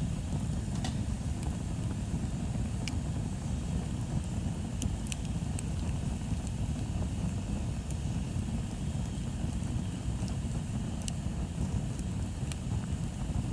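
Bonfire burning with a few sharp crackles of wood, spaced seconds apart, over a steady low rumble.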